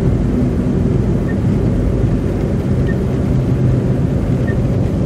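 Steady low rumble of a car driving on a slushy road, heard from inside the cabin with the heater fan blowing to clear the fogged windscreen. A faint tick repeats about every second and a half.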